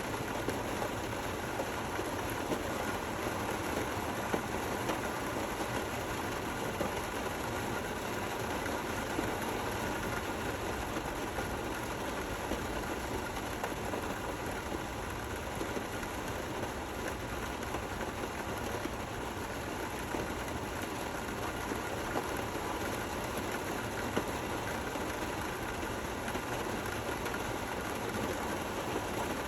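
Steady, gentle rain falling: an even hiss with the odd louder drop ticking out of it.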